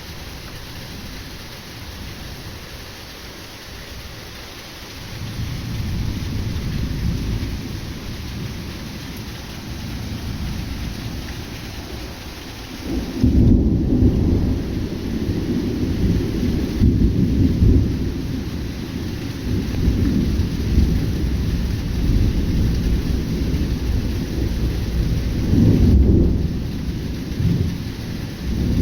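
Heavy rain falling steadily with rolling thunder from a sudden summer thunderstorm. The low rumble swells about five seconds in and grows louder from about halfway through, with loud peaks near the end.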